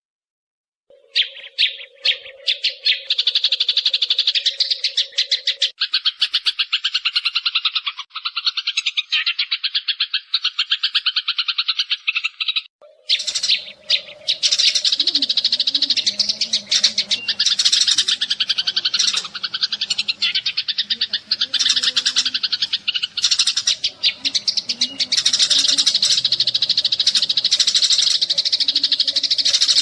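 Sparrows chirping and chattering in a dense, fast, continuous stream, a decoy call recording for luring birds. It starts about a second in and breaks off briefly about thirteen seconds in.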